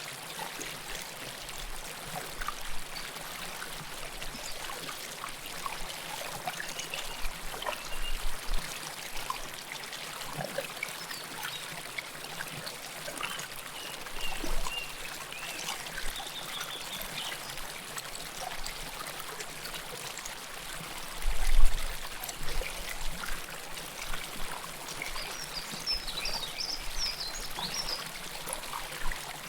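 River water flowing close to the microphone: a steady rush with trickling and pouring, broken by a few brief low surges, the loudest about two-thirds of the way through.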